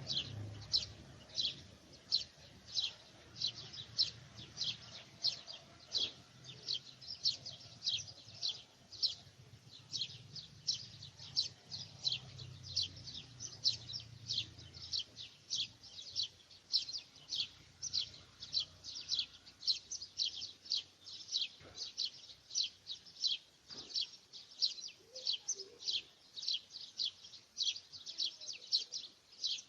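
A small bird repeating a short, high chirp, about two chirps a second, steadily and without pause. A faint low rumble sits under the first half.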